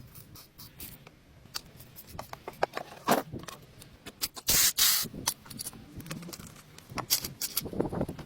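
Workshop handling noise: scattered sharp clicks and knocks of metal parts and tools, with a short loud burst of hiss about four and a half seconds in.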